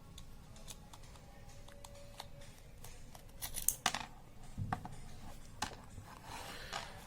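Scattered sharp plastic clicks and scrapes as the LED bulb's panel is pried out of its housing, with a small cluster of louder clicks a little under four seconds in.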